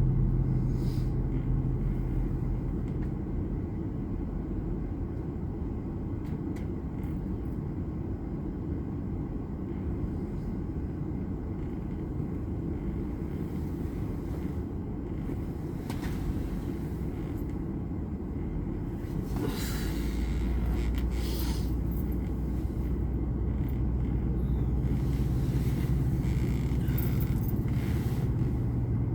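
Semi truck's diesel engine running with a steady low rumble; the engine drone grows louder about twenty seconds in.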